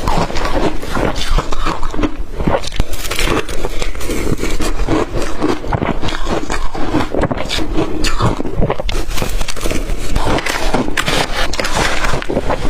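A person biting and chewing blender-crushed ice close to the microphone: loud, dense, rapid crunching.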